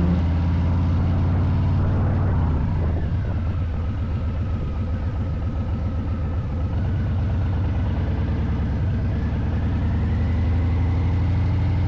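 Harley-Davidson V-twin motorcycle engine running, its speed dropping into a slower, pulsing beat about three seconds in and rising again near the end.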